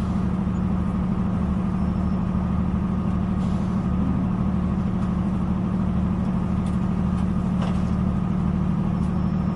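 Steady drone of a diesel multiple-unit train heard from inside the carriage: an even engine hum with a low flutter beneath it.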